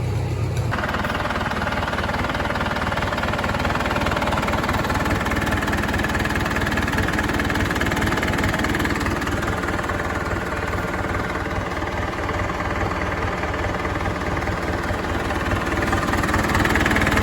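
Farmall tractor engine running steadily with a fast, even firing beat. About a second in, the sound changes as this louder engine takes over from a lower, smoother hum.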